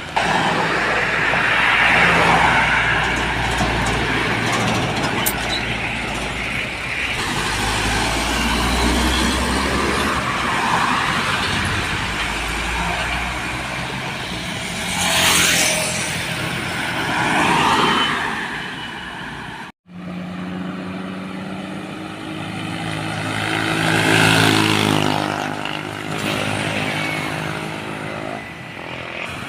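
Heavy diesel trucks and other road traffic passing by close, engines running with road noise that swells as each vehicle goes past. The sound cuts out abruptly for a moment about two-thirds of the way through, then another engine is heard rising and falling in pitch as it passes.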